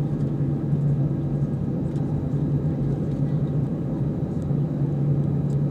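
Airbus A319 engines running steadily: a continuous low rumble with a constant hum.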